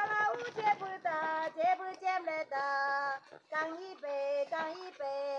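A high, young female voice singing a melody in long held notes that glide from one pitch to the next.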